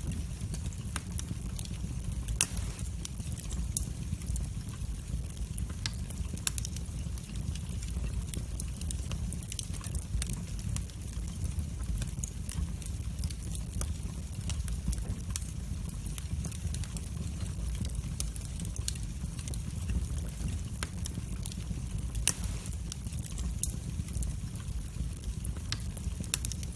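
Wood fire burning in a fireplace: a steady low rumble of the flames with irregular sharp crackles and pops, a louder pop about two seconds in and another near the end.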